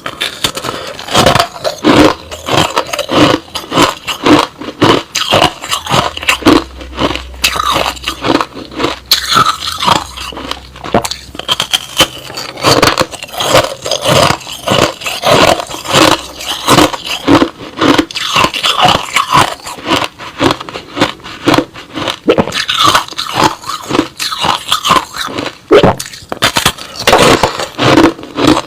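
Crushed-ice slush being bitten and chewed: a steady run of sharp crunches, several a second.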